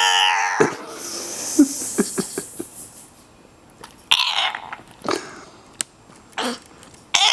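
A dog vocalizing: a drawn-out pitched call trails off at the start, followed by a few short separate sounds, and another drawn-out pitched call begins near the end.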